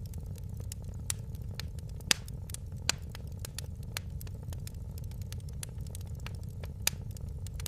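Wood fire in a fireplace crackling: a dense run of sharp snaps and pops over a steady low rumble, with a few louder pops, the loudest about two seconds in.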